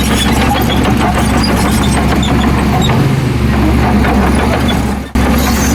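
Heavy diesel engine of earthmoving machinery running steadily, a deep low drone, which cuts out for a split second about five seconds in.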